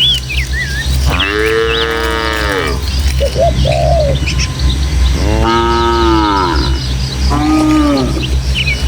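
Cows mooing three times, long arching calls with the last one shorter, while small birds chirp throughout over a steady low rumble.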